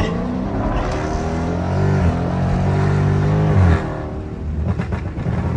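Dodge Charger 392's 6.4-litre HEMI V8 at full throttle, its pitch climbing with a gear shift about 2 s in. A little before 4 s the throttle closes and the note drops. Short crackles from the pop-tuned exhaust follow.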